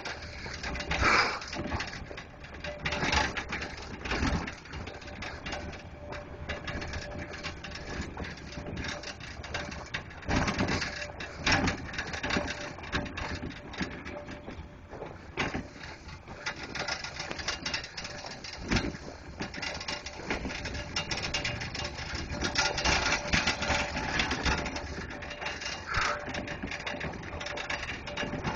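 Footsteps crunching and scuffing in deep snow on a steep downhill walk, at an uneven pace with occasional heavier thumps.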